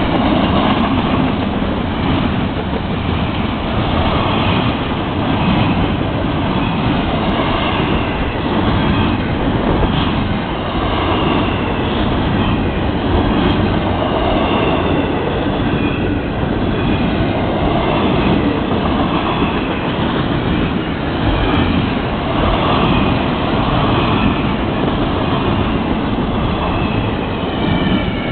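Freight train cars rolling past at speed: a loud, steady rumble of steel wheels on the rails that swells and fades every couple of seconds as the cars go by.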